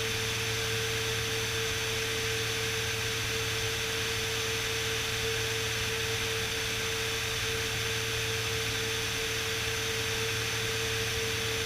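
Steady drone of a Beechcraft Bonanza S35's engine and propeller in flight, as heard in the cockpit, with an even rushing noise and a steady mid-pitched hum tone.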